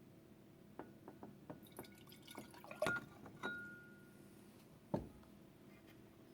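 Water being poured from a small cup into the bottom of a compact percolator pot, with light clinks and taps of the cup and pot. A short ringing clink about three seconds in, and a knock about five seconds in.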